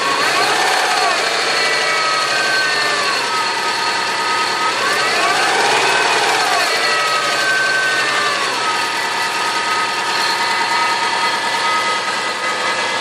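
An engine running, revved up and let back down twice, once near the start and again around the middle, over a steady whine.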